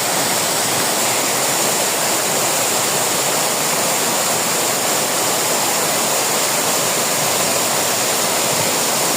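Mountain waterfall in full flow after rain, a loud steady rush of falling water.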